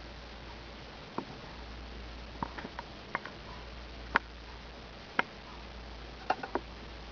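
A squirrel eating, its teeth on the food giving sharp, irregular clicks and cracks, about nine over several seconds, over a steady hiss.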